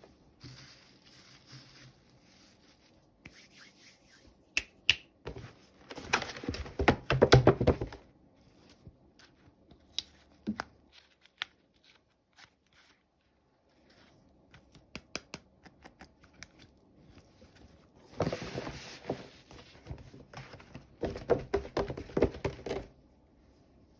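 Hands tearing open and crinkling toy packaging, with scattered small clicks and taps. There are three louder spells of rustling and tearing, one in the first third and two near the end.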